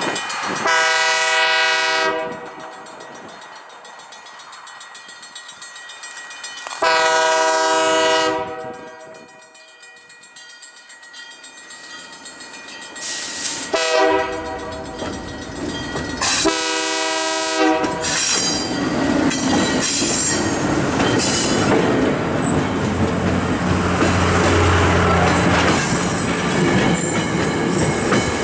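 Morristown & Erie ALCo diesel locomotive's multi-tone air horn blowing the grade-crossing signal: long, long, short, long. Then the locomotive's diesel engine rumbles past, and passenger coaches roll by with clickety-clack wheel noise on the rails.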